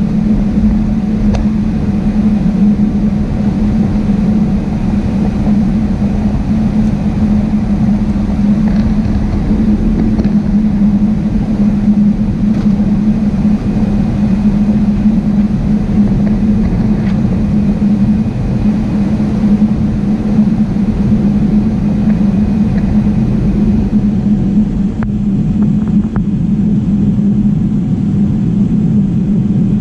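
Jet airliner's engines and airflow heard inside the passenger cabin: a steady, loud drone with a strong low hum and rumble that holds even throughout.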